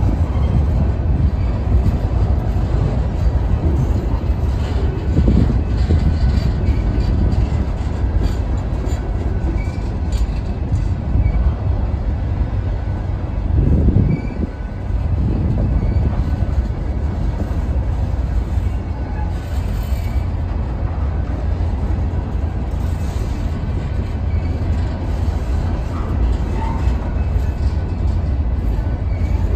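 Freight train's open-top freight cars rolling past, steel wheels on the rails giving a steady heavy low rumble with clatter. It swells louder for a moment about fourteen seconds in.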